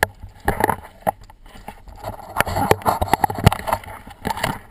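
Footsteps crunching and knocking on a rocky trail, an irregular run of sharp steps with scuffing in between.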